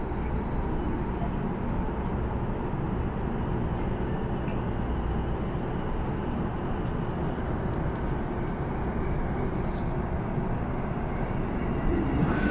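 Interior running noise of a JR Nambu Line electric commuter train getting under way from a station: a steady rumble of wheels and traction equipment. A short higher tone sounds near the end.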